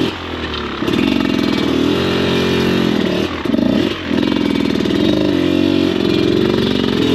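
Off-road motorcycle engine running under load on a trail, its note rising and falling with the throttle and dropping away briefly near the start and twice around the middle.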